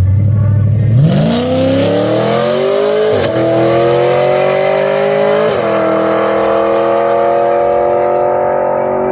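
Sportbike launching down a drag strip: the engine climbs sharply from idle to high revs about a second in, drops briefly with two quick upshifts, then holds high revs as it pulls away.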